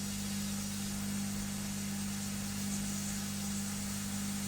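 Hot air rework station blowing steadily: an even hiss over a constant electrical hum.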